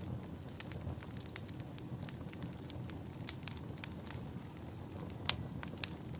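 Crackling wood fire in a fireplace: a steady low rumble of flames with frequent irregular sharp pops, one louder pop about five seconds in.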